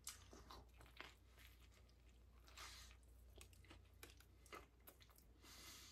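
Faint chewing of a turkey-and-vegetable sandwich: soft, irregular crunches and mouth clicks over a low steady hum.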